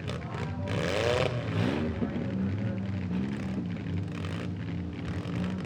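Demolition derby car engines running, with one revving up and back down about a second in, then settling to a steady idle.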